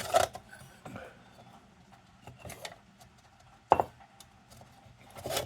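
Handling of a tin kerosene lantern while its glass globe is taken out: a few sharp metal and glass clinks and knocks, the loudest about three and a half seconds in.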